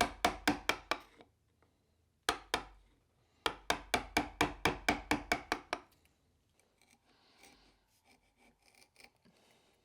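Quick, sharp strokes of a hand tool cutting into a canary wood wedge to form its shaving ramp, about six a second. A short run comes first, then two strokes after a pause, then a longer run of about a dozen that stops about six seconds in. Faint scraping and handling noises follow.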